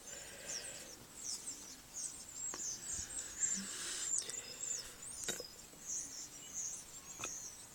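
A flock of small birds chirping, a continuous chatter of many short, high chirps overlapping one another.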